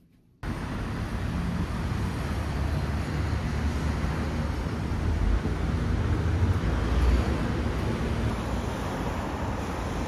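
Steady road-traffic rumble cutting in abruptly about half a second in.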